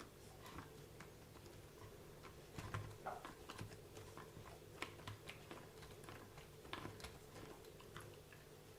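Faint, irregular light clicks and ticks from a WLtoys 144001 RC car's freshly greased differential gears being turned by hand, one wheel held while the other is rotated.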